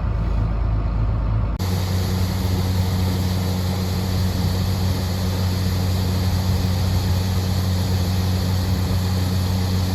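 Harvest machinery engine running steadily with a low hum. About a second and a half in, the sound changes abruptly to a different, steadier engine drone.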